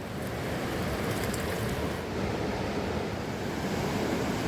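Mountain river rushing: a steady noise of flowing water.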